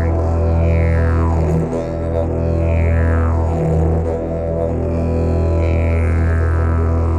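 Didgeridoo playing a steady low drone, with a bright band of overtones sweeping downward three times.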